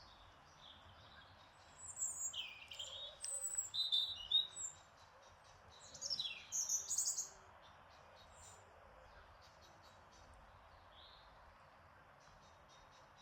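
Garden songbirds chirping and calling in two short bouts, about two seconds in and again around six seconds in, over a faint steady outdoor hiss.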